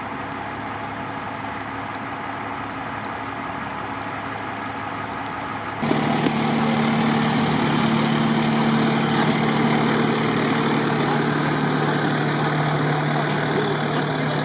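A vehicle engine idling steadily. About six seconds in the sound abruptly gets louder, with a stronger, higher steady hum and more rushing noise, which then holds.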